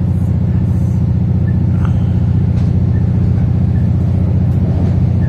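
Cabin sound of an Adelaide Metro 3000-class diesel-electric railcar travelling at speed: a steady, loud low rumble from the engine and running gear, with a few faint clicks.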